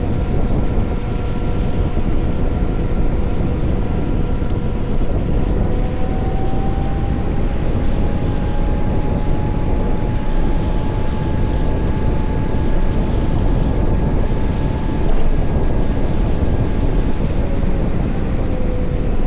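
Wind noise on the microphone of a riding electric motorcycle, with the thin whine of the VMoto Stash's electric drive over it. The whine rises in pitch about six seconds in, holds, and falls back near the end as the bike speeds up and slows.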